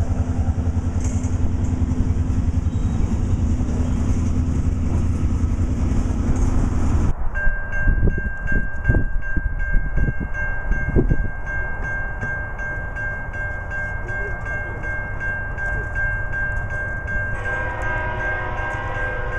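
Freight train of covered steel-coil cars rolling past with a loud, steady low rumble of wheels on rail. After a cut about seven seconds in, a steady high tone sounds, and near the end a distant train horn blows from an approaching locomotive.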